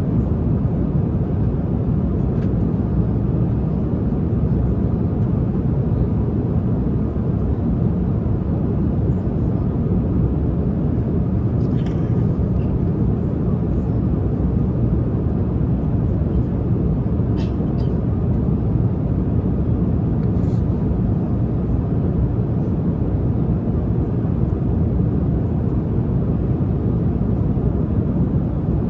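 Steady low rumble of an airliner cabin in flight, with a few faint clicks around the middle.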